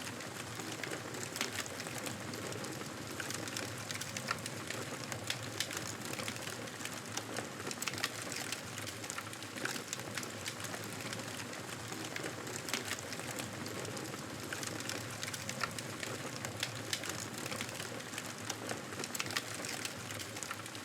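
Wood fire crackling in a fireplace: a steady hiss dotted with frequent small, sharp pops at irregular intervals.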